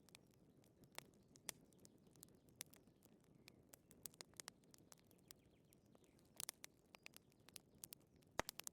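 Wood fire crackling in a fireplace: irregular sharp pops and snaps over a faint steady low noise, with a quick cluster of louder pops past the middle and one sharp loud pop near the end.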